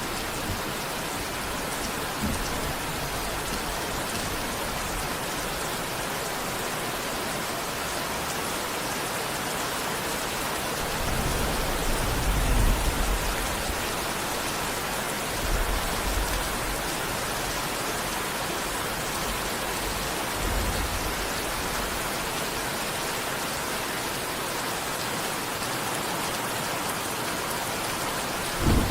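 Steady heavy rain falling, an even hiss throughout. Low rumbles of distant thunder swell under it around the middle, and a sharper thunder crack comes right at the end.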